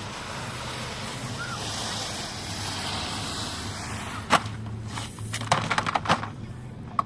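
Waves breaking over a pebble beach. A long hiss of washing surf swells over the first four seconds, then sharp clicks and clatters of stones knocking together as the water drags the pebbles.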